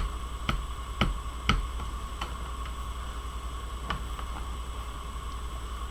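A few light clicks and taps of hands handling paper-crafting tools, several in the first two seconds and a couple more later, over a steady low electrical hum with a faint whine.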